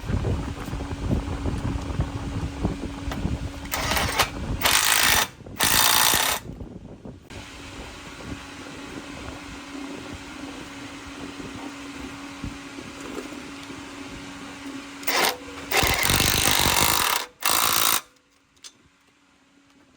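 Truck-repair machinery: a steady motor hum, broken by several loud noisy bursts of up to about a second each, twice in clusters. It drops to a faint hum near the end.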